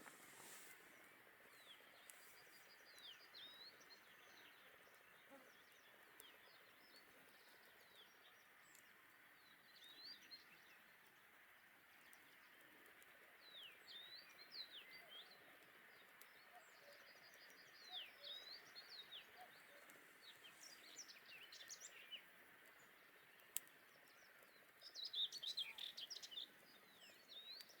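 Faint songbirds chirping and singing in short, quick high phrases over a soft steady hiss, with a busier flurry of calls near the end.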